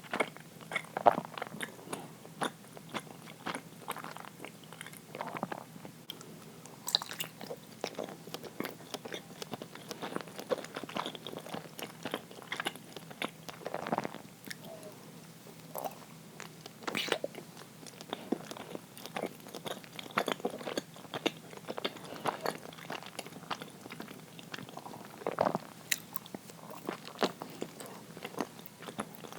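A person chewing and biting uirō, a soft, sticky Japanese steamed rice-flour cake, close to the microphone: a constant run of short, irregular mouth clicks with no pauses.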